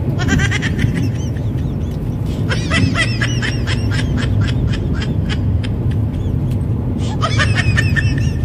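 Steady low rumble of a car driving, heard inside the cabin, with three bursts of rapid, repeated high chirps, about four a second.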